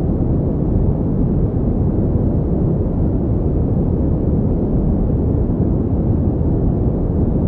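Pink noise: a steady, unchanging hiss weighted toward the deep end, with no events or variation.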